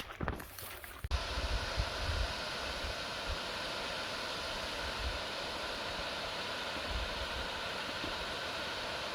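Steady rush of flowing water that cuts in abruptly about a second in, after a few footsteps on the track, with low gusts of wind on the microphone.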